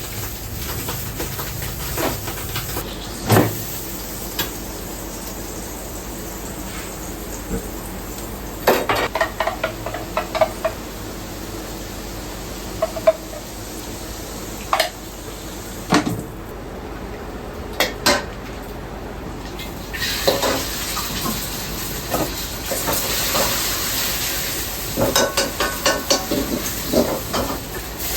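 Ramen shop kitchen at work: utensils, pots and bowls clattering and knocking over a steady hum. About two-thirds of the way through, a stronger hiss of food frying comes in, with quicker clattering.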